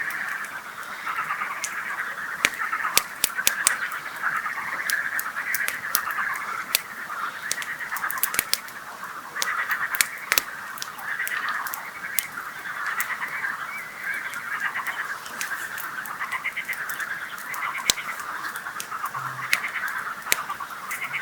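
A chorus of frogs croaking steadily, with a wood campfire crackling in sharp snaps and pops throughout.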